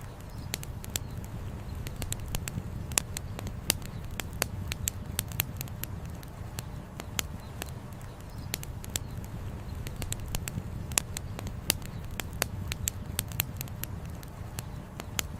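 Campfire crackling: burning firewood snaps and pops irregularly, several times a second, over a steady low rumble.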